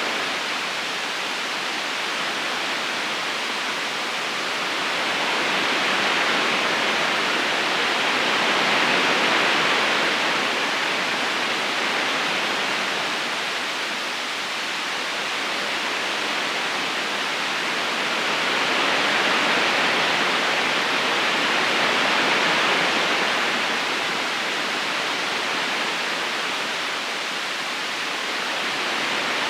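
Steady rush of flowing river water, rising and falling slowly in level every several seconds.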